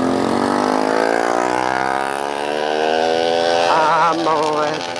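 Yamaha FZ25 motorcycle engine running under way, its pitch rising slowly and steadily as it gathers speed. A wavering, warbling tone joins about four seconds in.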